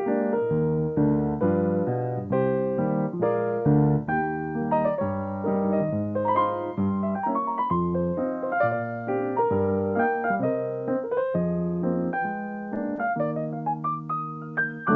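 Solo piano playing continuously, a melody over chords and bass notes.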